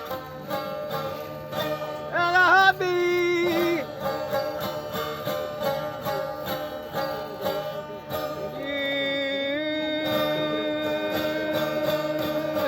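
Live acoustic music: plucked strings with a voice singing, a strongly wavering note about two seconds in and a long held note from about nine seconds in.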